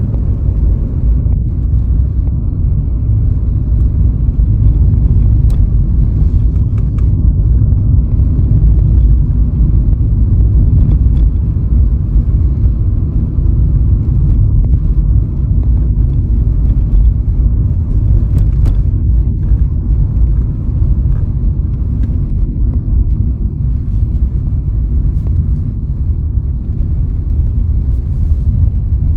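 Steady low rumble of road and wind noise from a moving car, with a few faint clicks.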